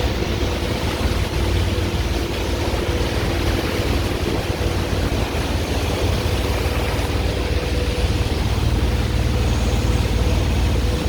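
A steady engine drone with a heavy low rumble and a constant hum.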